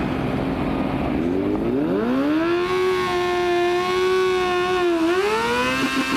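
A car engine revved up, held at high revs for a few seconds, then easing off briefly just before the end and revving up again.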